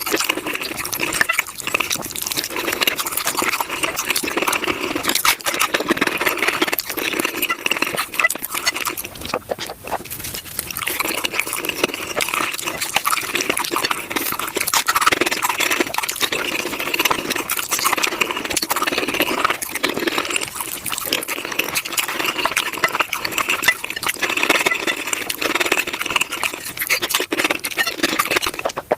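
Close-miked chewing and crunching of tacos, sped up, so the bites and mouth sounds run together as a dense stream of crackling clicks with a short lull about ten seconds in.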